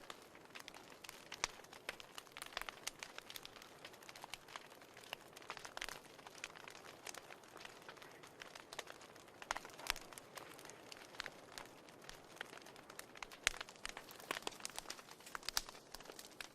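Fire burning in a fireplace, crackling with irregular sharp pops and snaps over a faint steady hiss.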